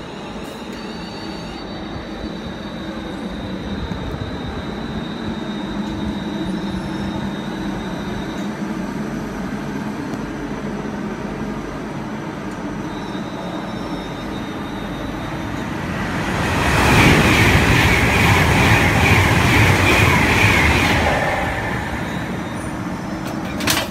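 Electric trains at a station platform: a steady electric hum and whine from a multiple unit standing or moving slowly. About sixteen seconds in, a Virgin Trains class 390 Pendolino passes through non-stop at speed with a loud rush lasting about five seconds, then fades away.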